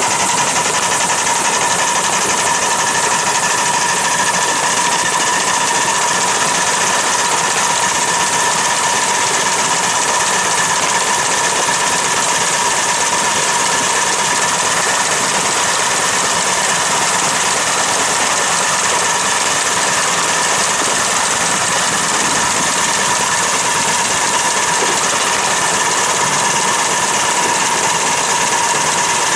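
A machine running steadily and loudly, unchanging throughout, with a constant high hum.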